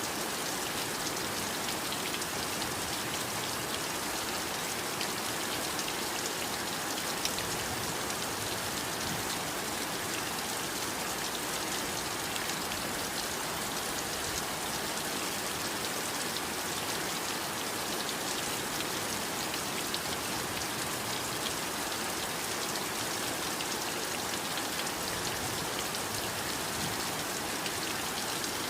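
Heavy rain falling steadily, a dense even hiss of drops with fine individual patters on a surface.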